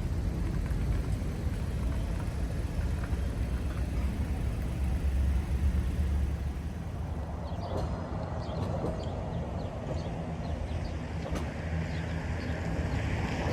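Steady low engine rumble of a vehicle, with a few light clicks about eight and eleven seconds in.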